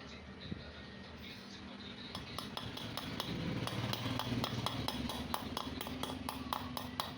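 Rapid metallic clinking of tools or metal parts, starting about two seconds in and repeating about four to five times a second.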